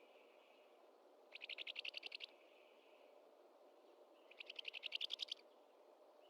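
Bird calls: two rapid clicking trills, each about a second long and about three seconds apart. Each trails off into a faint hiss.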